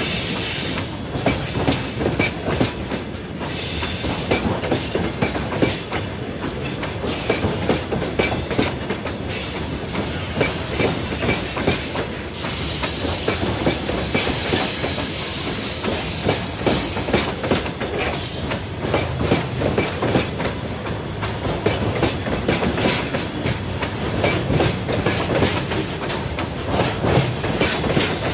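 Freight train behind a 2ES4K "Donchak" electric locomotive rolling past close by, its wagon wheels clattering steadily and continuously over the rail joints.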